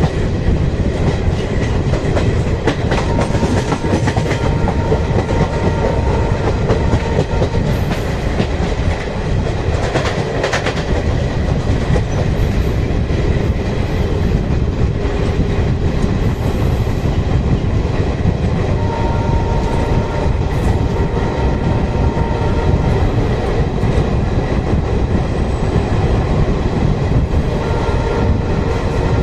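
Passenger train running along the track, heard from the moving coach: a steady rumble of wheels on rail with the clatter of wheels over rail joints and points.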